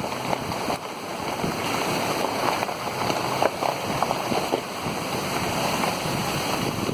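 Floodwater rushing and splashing around a vehicle driving slowly through a flooded road.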